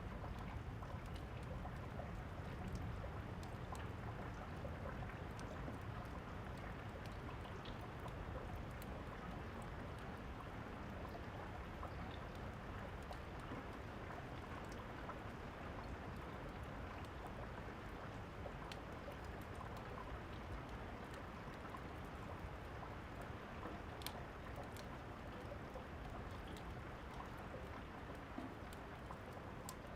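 Steady rain falling, an even hiss, with the small crackles and pops of a wood fire scattered over it, one sharper pop about three quarters of the way through.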